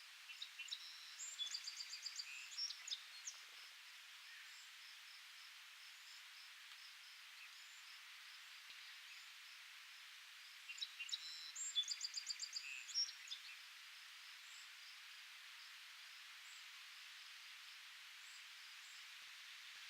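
A songbird sings two short phrases of rapid, high repeated notes, one near the start and one about ten seconds later, over a steady high hiss and a faint, regular insect chirping about three times a second.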